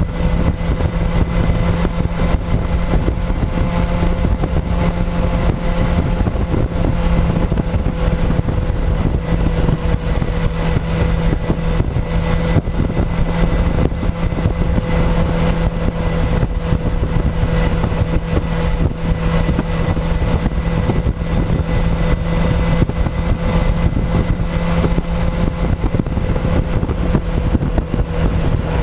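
Motorcycle engine running at a steady speed under way, heard close up from a tank-mounted camera, its even hum mixed with a constant rush of wind and road noise.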